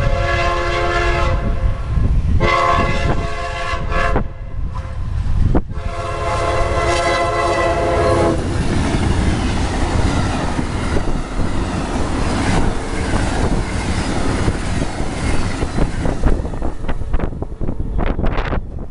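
Train locomotive horn sounding three blasts for a grade crossing, the last one the longest. Then the train passes with a loud rolling rumble and clickety-clack of wheels over rail joints, which thins out near the end.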